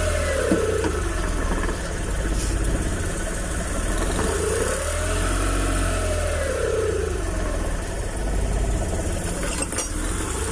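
Suzuki F6A three-cylinder multicab engine running at idle, its revs swelling up and dropping back once about midway. The mechanic says it is misfiring.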